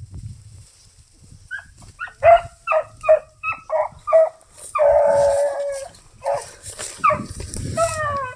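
Hunting dog yelping on a rabbit's trail: a quick run of about seven short yelps, one longer bay, then more yelps falling in pitch.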